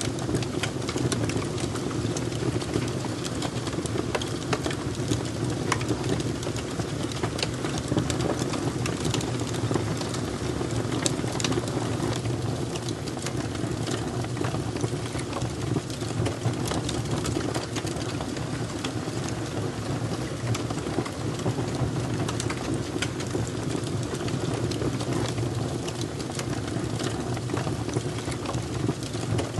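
Fire crackling: a dense scatter of small sharp pops over a steady low rumble.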